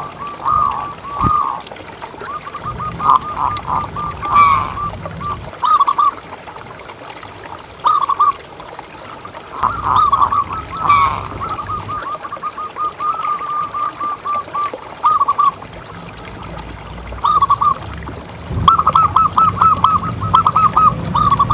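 Zebra dove (perkutut) cooing: bursts of quick staccato notes, with a fast, dense run near the end.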